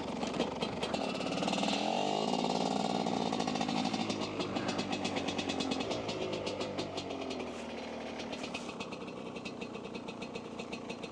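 Dirt bike engine running. It comes in suddenly and revs up a second or two in, then holds a fairly steady note that slowly gets quieter.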